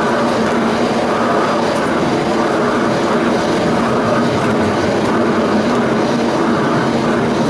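Tram in motion, running steadily along its line: a continuous rumble of wheels on rails and motor hum, with no sudden events.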